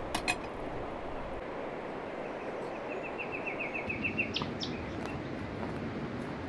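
A small songbird gives a rapid trill of about a dozen quick high notes near the middle, then two short sharp notes, over a steady rushing background noise. A couple of sharp clicks come right at the start.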